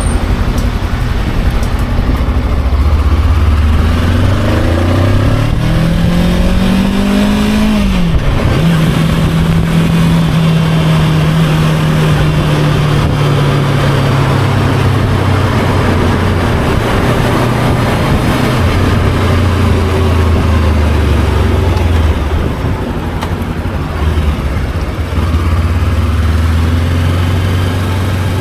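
Motorcycle engine pulling hard under acceleration, its note climbing steadily, then dropping sharply with a gear change about eight seconds in. After that it holds a steady note that slowly sinks as the bike cruises and eases off, with a constant rush of wind and road noise underneath.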